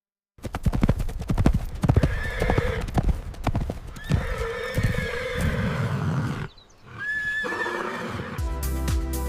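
Horse neighing three times over the clopping of its hooves. Electronic music starts near the end.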